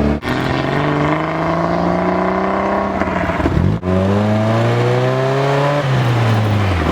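1977 Triumph Spitfire 1500's four-cylinder engine heard from inside the car, accelerating hard up through the gears. The revs climb, break briefly twice for upshifts and drop to a lower pitch each time, then fall away near the end as the driver lifts off.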